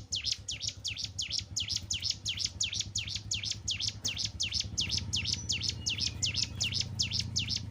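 Ciblek gunung (cigun), a hill prinia, singing a fast, unbroken string of sharp downward-sweeping chips, about four to five a second. A low rumble builds underneath from about halfway.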